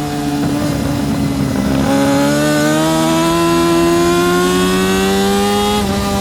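Yamaha R6 (RJ03) inline-four engine at racing revs. The engine note sits low for about two seconds, then rises steadily as the bike accelerates, and dips briefly near the end at a gear change, over a steady hiss of wind.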